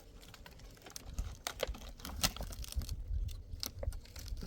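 Irregular clicks and crinkly rustling, like objects being handled, over a low rumble that starts about a second in.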